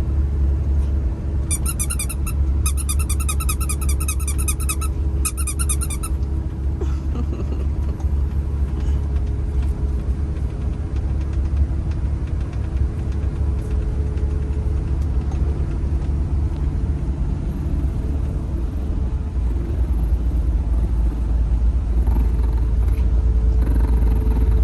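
Tractor-trailer engine idling, a steady low rumble heard from the cab. About a second and a half in, a rapid high-pitched trilling runs for roughly four seconds over it.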